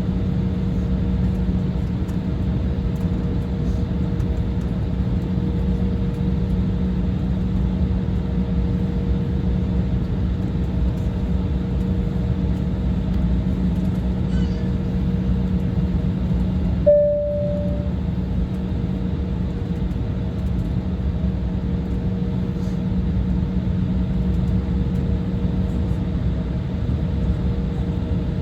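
Steady cabin noise inside an Embraer 175 airliner, the hum of its CF34 turbofan engines over a constant rushing background. About two-thirds of the way through, a single short chime-like tone sounds and fades.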